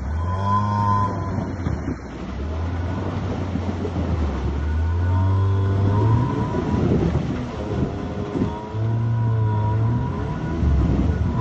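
ATV engine running while riding, its revs rising and falling several times.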